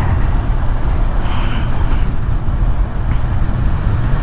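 Kawasaki Z900 inline-four motorcycle running on the move, with steady wind rush and rumble on the rider's microphone.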